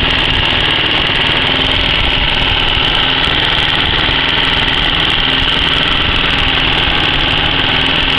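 Car engine idling hot after several minutes at idle, running steadily with a constant high-pitched hiss over it: a noise that the owner places toward the top of the engine rather than at the cooling fan.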